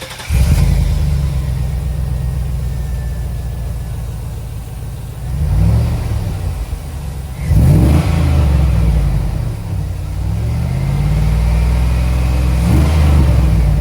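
Car exhaust with the engine running and revved several times: the revs rise and fall a few seconds in, jump sharply about halfway through, then climb again toward the end.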